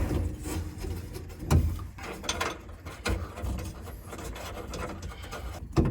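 Hand tools working a nut on old metal bodywork: irregular scraping and clicking, with a few sharper knocks about one and a half, three and nearly six seconds in.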